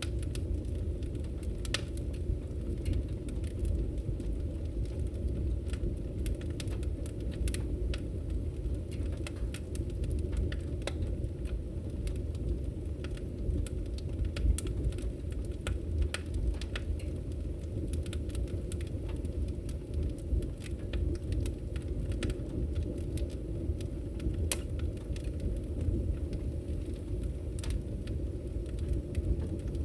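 Campfire burning: a steady low rumble of flames with sharp crackles and pops at irregular intervals.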